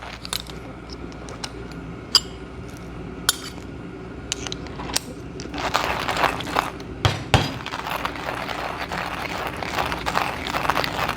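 A few light clinks and taps, then a hand coffee grinder cranking steadily, crunching through beans, with one loud knock partway through.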